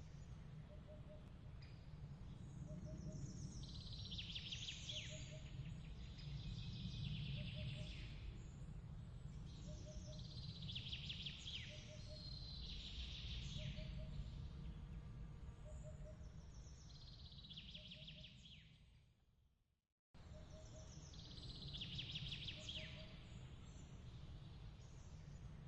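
Looped nature ambience: bursts of bird chirping every few seconds over a steady low rumble, with a soft double pip repeating about once a second. About 19 seconds in the whole track fades out to silence and restarts a second later, a loop seam.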